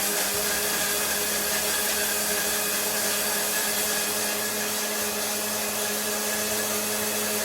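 Electric blender running steadily with a high motor whine, puréeing peeled tomatoes, herbs and garlic into pizza sauce.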